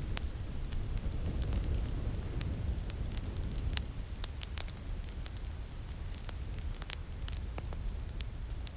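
Crackling fire, with frequent sharp, irregular pops and snaps over a steady low rumble of winter wind.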